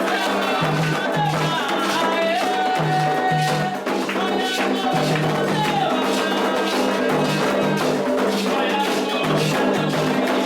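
Candomblé ceremonial music: steady drumming with rattles, and singing over it.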